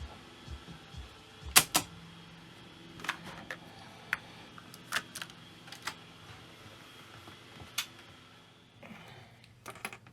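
Irregular sharp clicks and knocks of a cassette deck being handled and worked on, the loudest a close double click about a second and a half in, with a short scrape near the end.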